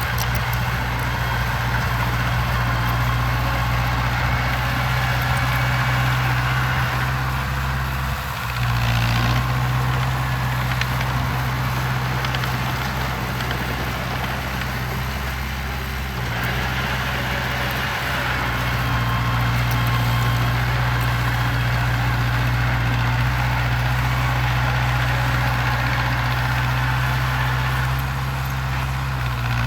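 Heavy construction machine's engine running steadily with a deep, constant hum. There is a brief dip about eight seconds in and a shift in tone around sixteen seconds.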